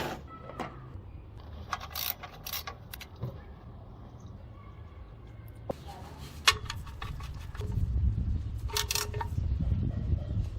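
Metal tools and parts clinking, clicking and scraping during an oil change, with a few short metallic rings about nine seconds in.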